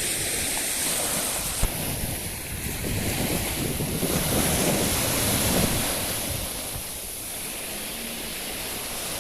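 Sea waves washing onto the shore, swelling and easing, with wind buffeting the microphone. A brief sharp knock sounds about a second and a half in.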